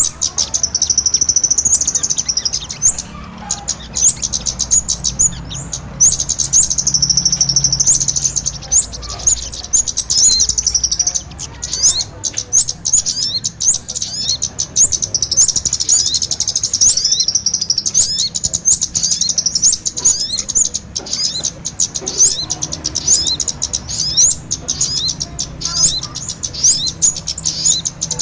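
Lure recording of kemade and sogon ontong birds calling together: continuous high-pitched chirping and twittering in rapid, overlapping strings of notes, with hardly a pause.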